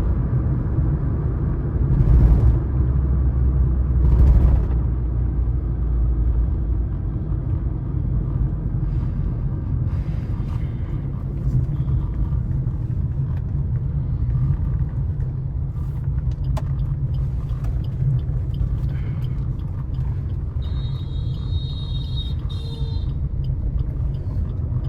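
Highway driving noise heard inside the cabin of a Suzuki S-Cross 1.3 DDiS diesel at speed: a steady low rumble of engine, tyres and wind. There are three brief louder swells in the first five seconds, and a short high-pitched tone near the end.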